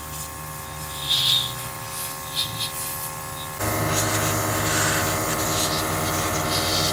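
Machinery running with a steady hum of several tones, becoming louder about three and a half seconds in, with a few short scraping rubs early on.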